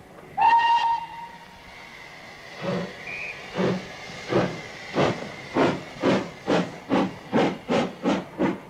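Steam locomotive pulling away: one short whistle blast, then exhaust chuffs that start slow about three seconds in and quicken steadily to more than two a second, over a soft steam hiss.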